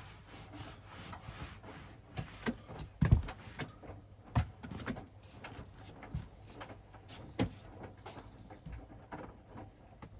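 Hoover DXOA610AHFN-80 front-loading washing machine in its wash phase: irregular thuds and rubbing from the drum turning the laundry, the loudest thud about three seconds in.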